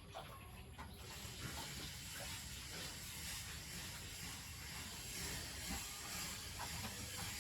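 Steady hiss of water spraying, setting in about a second in and holding even.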